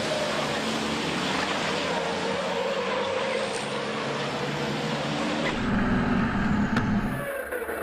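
Racing trucks' diesel engines running at speed, a dense engine noise. From about five and a half seconds in, a deep engine rumble grows louder as a truck comes close. It cuts off abruptly near the end.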